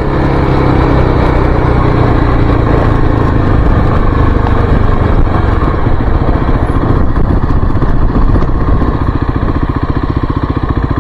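Kawasaki KLX300's single-cylinder four-stroke engine under way, pulling harder right at the start and then running steadily. It eases off near the end into a slower, evenly pulsing beat.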